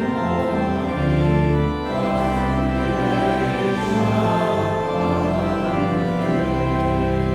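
Church organ playing a hymn in held, changing chords, ending on a long low chord.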